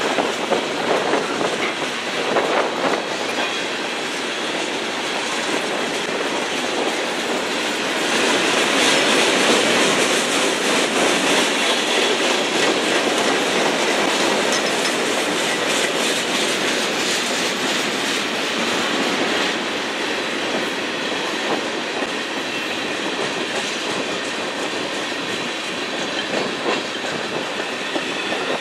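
Freight cars of a manifest train, mostly tank cars, rolling steadily past at close range, with continuous wheel-on-rail noise and light ticking from the wheels. The noise grows louder and brighter about eight seconds in, then eases back down after about ten seconds.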